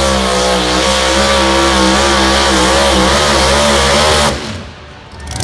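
Pulling truck or tractor engine running hard at high revs, its pitch wavering slightly under load, then dropping off sharply about four seconds in as the throttle comes off.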